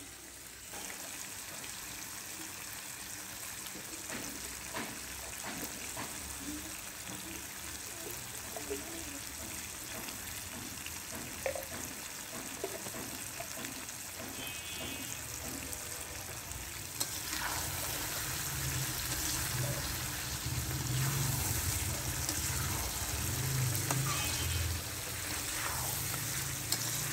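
Chicken and potato curry sizzling in a metal karahi, with occasional clicks of a metal spatula against the pan. About two-thirds of the way through, a louder rushing noise with a low rumble comes in.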